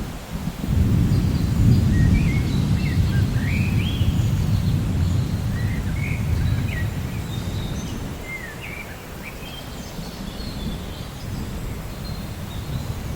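A low rumble of thunder swells about a second in and rolls away over several seconds. Birds chirp and call over it in short rising and falling notes, in a rainforest ambience.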